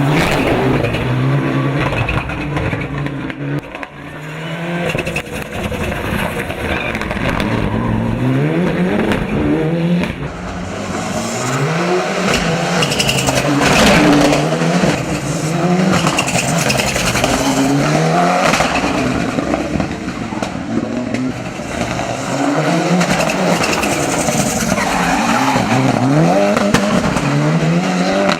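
Mitsubishi Lancer Evolution VI race car's turbocharged four-cylinder engine driven hard. The revs rise and fall in pitch again and again through the gears, with a short lift off the throttle about four seconds in.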